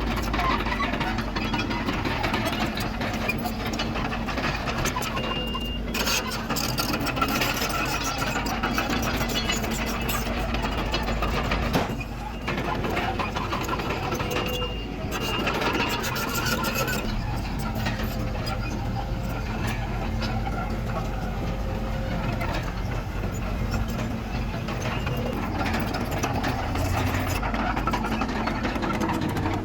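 Bulldozer's diesel engine running steadily, with continuous rattling and clanking, and brief dips in level around twelve and fifteen seconds in.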